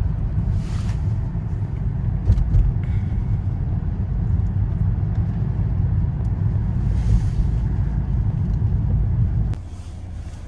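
Steady low rumble of road and engine noise inside a moving car's cabin, which drops suddenly to a quieter level near the end.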